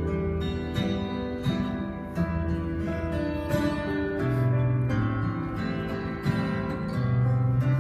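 Instrumental music led by acoustic guitar, plucked and strummed over sustained bass notes.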